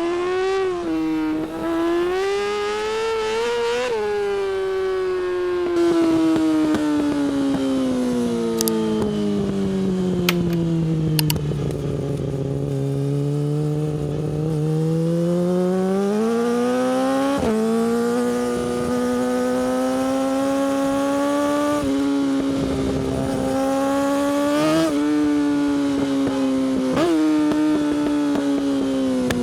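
Yamaha R6's 600cc inline-four engine through an Akrapovič exhaust, under way. The revs ease down over about ten seconds, then climb again through the gears, with a few sudden drops in pitch at the shifts.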